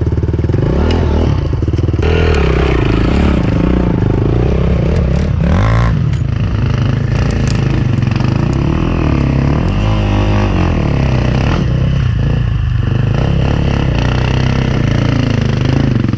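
Enduro dirt bike engine revving up and down under changing throttle, with scattered clattering knocks.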